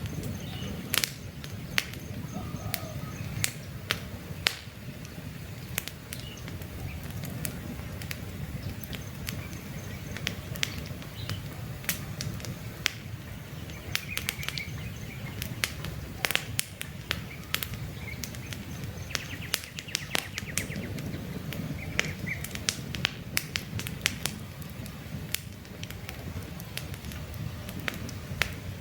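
Campfire of burning logs crackling, with irregular sharp pops over a low steady rumble of flames.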